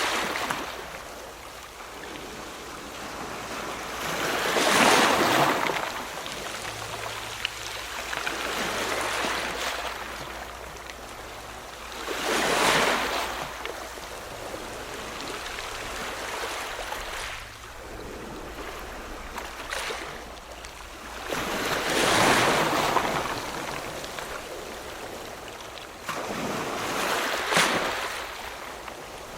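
Ocean waves breaking on a shore: four louder crashes, several seconds apart, each swelling up and then falling back into a steady hiss of washing surf between them.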